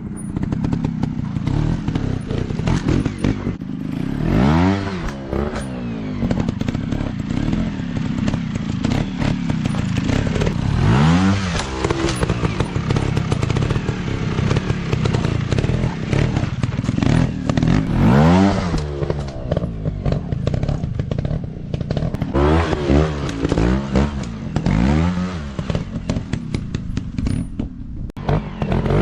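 Dirt bike engines running, with repeated bursts of throttle that rise and fall in pitch every few seconds, several close together late on, over clattering and knocking from the bikes on rough ground.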